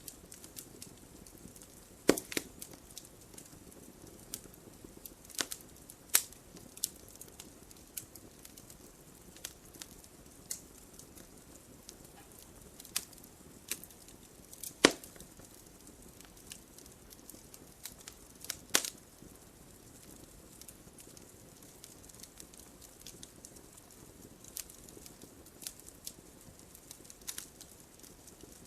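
Wood fire burning in a fireplace: a soft steady hiss with irregular sharp crackles and pops, a few louder snaps among them.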